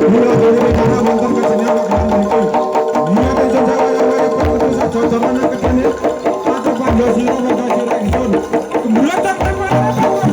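Live Javanese jaranan music: hand drums beating in a quick rhythm over steady held melodic tones.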